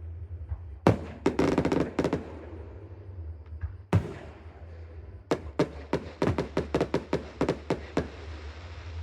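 Fireworks going off. A sharp bang about a second in is followed by a crackling burst, another bang comes near the middle, and then a quick run of sharp reports, several a second, fills most of the second half.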